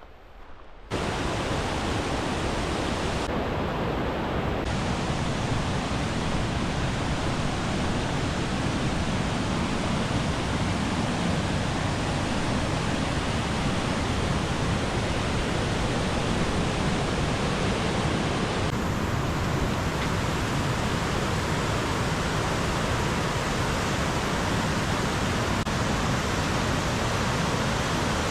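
Waterfall rushing, a steady, dense roar of falling water that comes in suddenly about a second in and then holds even.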